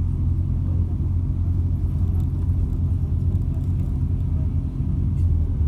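MAZ-206 city bus heard from inside the cabin while riding: a steady low engine and road rumble. The bus is one the rider says vibrates heavily.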